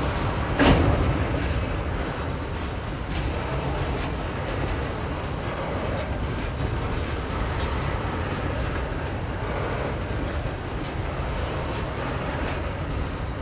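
Container wagons of a long freight train rolling past, a steady rumble of wheels on rail. There is one sharp clank about a second in, and faint wheel clicks after it.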